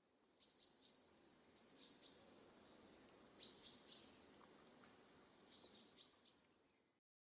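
A bird chirping in four short bursts of quick, high chirps, one burst every one and a half to two seconds, over a faint hiss. It cuts off suddenly near the end.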